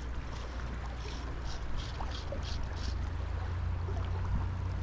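River water flowing steadily over a low, constant rumble, with a few faint short splashes or hisses in the middle.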